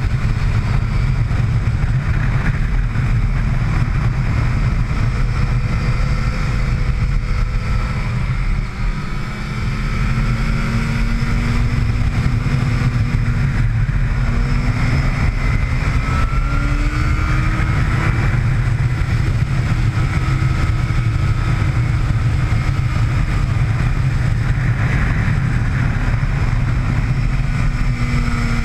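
Motorcycle engine heard on board at speed, its pitch rising and falling with the throttle through the corners, under heavy wind noise on the microphone. The level drops briefly about nine seconds in.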